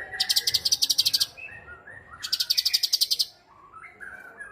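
Cucak cungkok songbird singing: two loud, very rapid high-pitched trills about a second each, with softer whistled notes between them.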